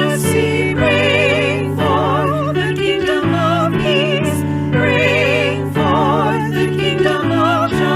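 Sacred music: singing voices with a wide vibrato over sustained low chords, the harmony shifting about once a second.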